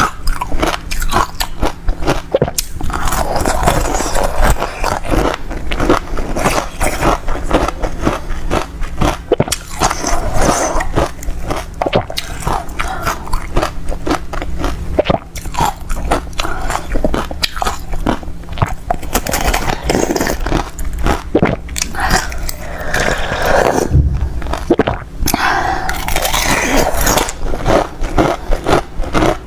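A person biting and chewing crunchy ice close to the microphone: dense, irregular crunching and crackling that goes on without a break.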